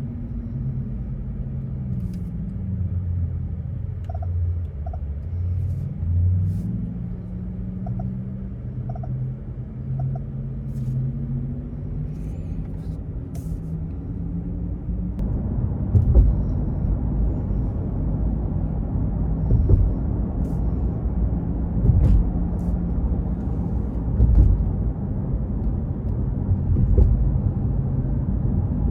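A Porsche Taycan electric car driving: steady low road and tyre rumble under a hum that drops and climbs in pitch with speed. About halfway through the road noise turns coarser and louder.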